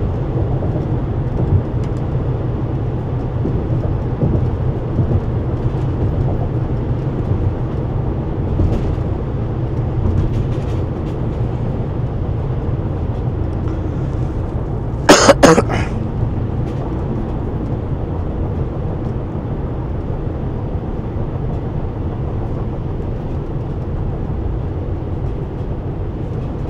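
Steady low road and engine rumble inside a moving van's cabin. About fifteen seconds in there is one short, loud burst of noise.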